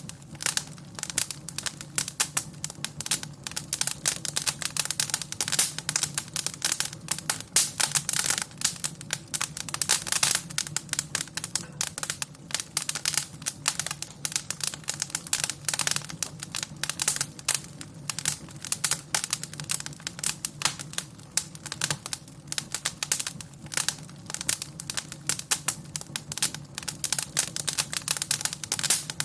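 Wood fire crackling in a fireplace: a dense, irregular run of pops and snaps over a steady low hum.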